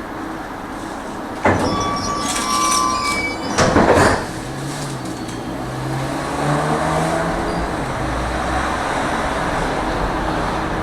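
Tram car running on rails, heard from inside: a steady rumble, then a sudden high metallic squeal about a second and a half in lasting about two seconds, a loud clattering rattle around four seconds, and then the low hum of the traction motor.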